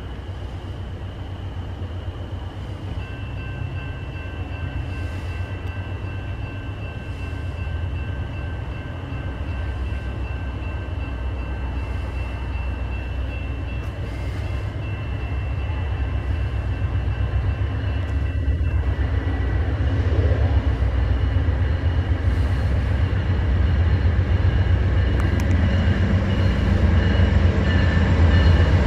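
Approaching train: a low rumble growing steadily louder as it nears, with faint steady high tones above it.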